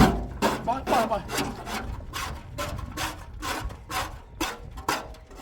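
Rhythmic scraping or rubbing strokes, a little over two a second, with short faint voices in the background.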